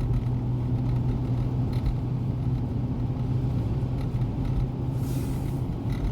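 Steady engine hum and tyre noise inside a moving car, with a brief hiss about five seconds in.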